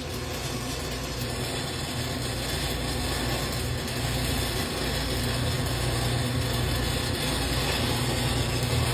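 Stick-welding arc on pipe: a steady crackling hiss from the burning electrode, with a low steady hum under it.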